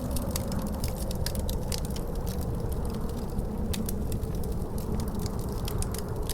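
Wood fire crackling with frequent sharp, irregular pops, over a steady low rush of wind.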